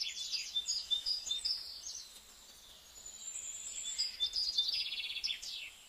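Birds chirping and singing outdoors, with rapid trills and short high whistles overlapping throughout.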